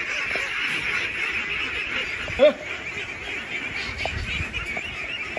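A large flock of domestic ducks quacking and chattering in a dense, continuous din, with one loud single call from a nearby duck about two and a half seconds in.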